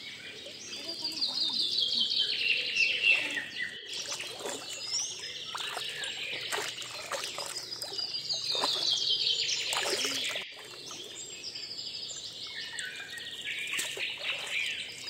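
A songbird singing: a fast trill of notes that falls steadily in pitch, given three times, with scattered short clicks in between.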